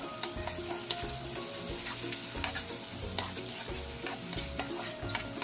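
Chopped onion, garlic and tomato sizzling in oil in a pot while being stirred with a spatula, with a few light clicks of the spatula against the pot. This is the sauté of the aromatics, the tomato cooking down in the oil.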